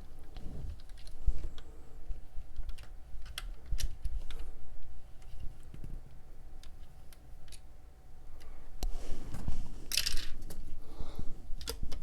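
Small plastic Lego pieces clicking and rattling as they are handled and pushed into place, with scattered sharp clicks and a denser stretch of handling noise about nine to eleven seconds in.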